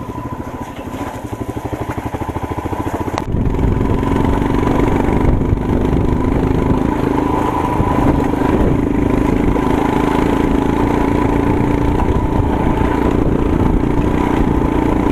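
Royal Enfield Himalayan's single-cylinder engine running while the motorcycle is ridden over a gravel road, its separate firing pulses plain at first. About three seconds in the sound jumps abruptly to a louder, steadier engine note under way.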